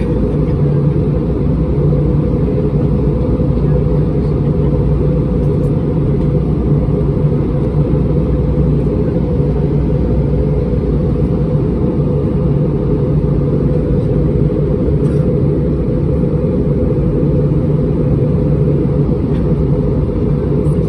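Steady low rumble and rushing noise inside the passenger cabin of an Airbus A320-231, from its engines and airflow, with a constant low hum.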